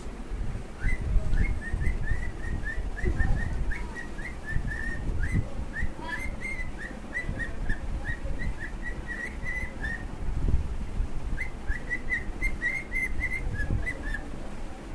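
Pet cockatiel whistling a rapid run of short, clear notes at much the same pitch, about three a second, with a brief pause about ten seconds in, over a low rumbling background noise.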